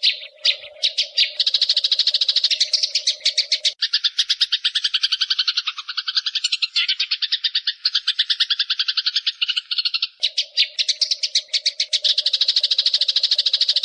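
Eurasian tree sparrows chattering in fast, unbroken runs of harsh chirps, about ten a second: the agitated calls of sparrows fighting. A low steady drone runs under the first four seconds and comes back about ten seconds in.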